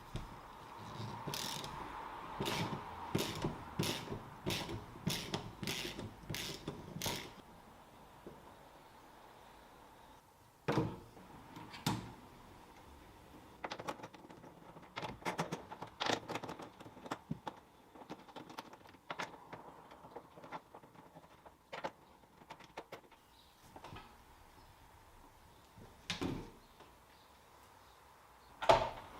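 Hand-tool work on a car's rear window wiper motor as it is taken out and apart. A regular run of about two clicks a second lasts for the first seven seconds, then scattered clicks and knocks follow, with a sharper knock near the end.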